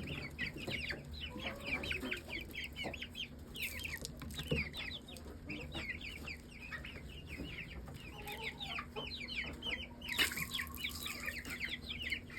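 A flock of chickens and their chicks: the chicks peep steadily, many short falling peeps a second, while adult hens make occasional lower clucks.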